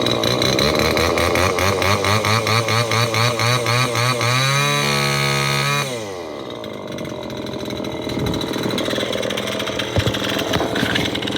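25cc two-stroke string trimmer with direct drive and no clutch, just started on one pull. Its engine is revved in quick repeated blips for about four seconds, held at high revs for about a second, then drops back to a quieter idle. Two sharp knocks come later, while it idles.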